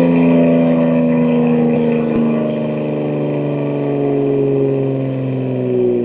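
BMW M2 G87's S58 twin-turbo straight-six running with a steady drone through catless downpipes and an equal-length mid pipe, its revs easing slowly down.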